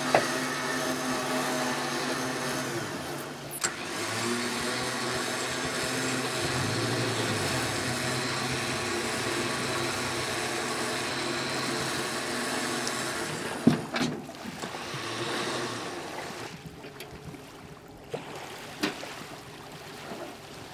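Boat outboard motor running at low revs, picking up briefly a few times. A sharp knock comes about two-thirds of the way through, and the engine sound fades out soon after.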